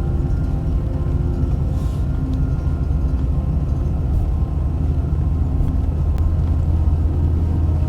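Truck driving slowly on a rough back road, heard from inside the cab: a steady low engine and road rumble with a few light knocks.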